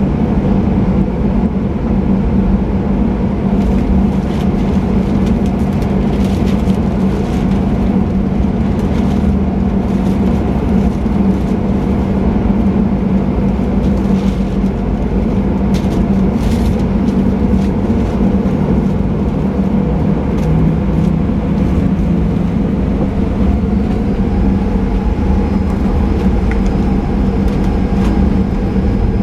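Boeing 737-800's CFM56 turbofan engines heard from inside the cabin: a steady, loud hum with scattered light clicks and rattles. Near the end, a higher tone begins to rise.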